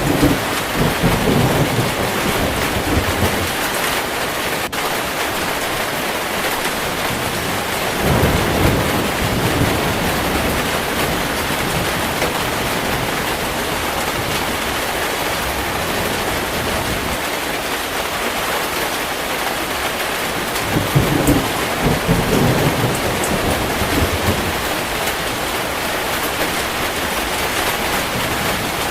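Heavy rain falling steadily, with rolls of thunder near the start, about eight seconds in and again about twenty-one seconds in.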